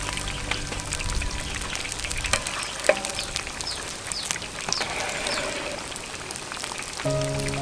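Food sizzling and crackling in hot oil: a dense, steady crackle of small pops, with one sharper pop about three seconds in.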